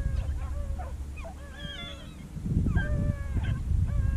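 Rabbit beagles baying on the trail of a running rabbit: several drawn-out bawls that bend in pitch, from more than one dog at once, with a low rumble underneath.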